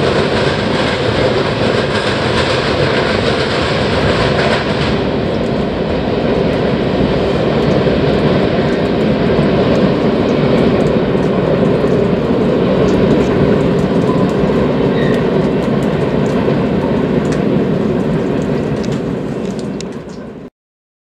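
Freight cars of a Union Pacific train rolling past, steel wheels clattering steadily over the track. The noise fades as the last car passes and cuts off suddenly near the end.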